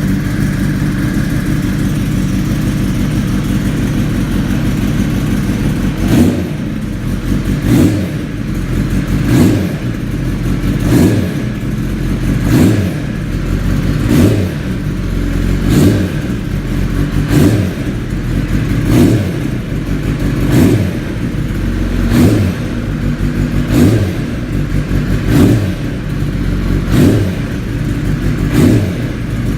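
2016 Kawasaki ZX-10R's inline-four engine warming up: it idles steadily, then from about six seconds in it revs in short, evenly spaced blips, roughly one every second and a half.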